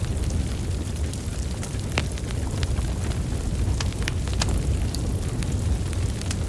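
Wood fire burning, with a steady low rumble of flames and irregular sharp crackles and pops from the burning logs, the loudest pop about two seconds in.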